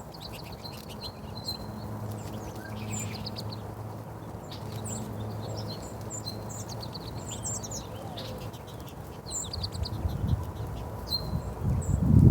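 Small birds chirping, many short high calls in quick succession, over a faint low hum. In the last couple of seconds a low rumbling and thumping grows louder.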